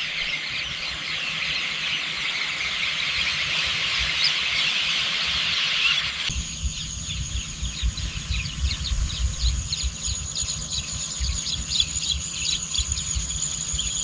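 Countryside ambience full of birds chirping rapidly, layered over a dense high insect-like buzz. About six seconds in the sound changes abruptly to quick separate chirps over a steady high whine and a low rumble.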